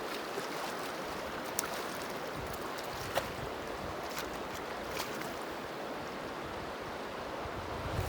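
Steady rushing of flowing river water, with a few faint sharp clicks over it.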